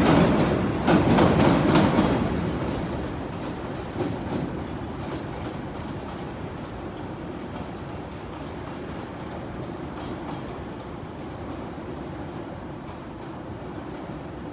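CTA "L" train running through a junction, its wheels clicking over the switches and crossings. Loud for the first two seconds, then it fades to a steady rumble with one more click about four seconds in.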